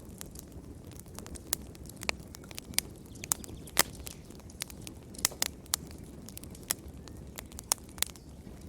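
Fire in a fireplace crackling, with irregular sharp pops over a low steady rumble. The loudest pop comes a little before the middle.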